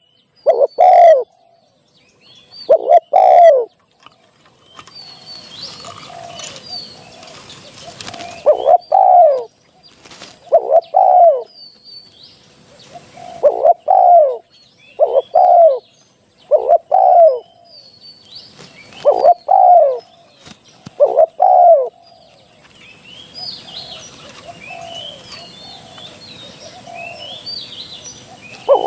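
Spotted dove (greater dove, นกเขาใหญ่) cooing over and over in short phrases of two or three notes, with small birds chirping faintly behind it.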